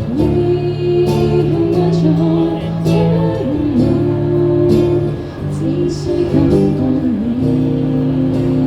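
Live band music with guitars, a melody line bending and wavering above steady held chords.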